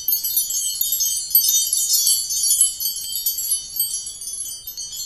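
Bright tinkling chimes: a dense cascade of many high bell-like notes, growing gradually fainter.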